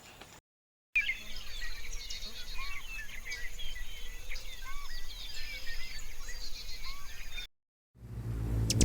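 Birds chirping: many short, overlapping calls and quick twittering glides, with a few lower arching whistles among them. The sound starts after a moment of silence about a second in and cuts off shortly before the end.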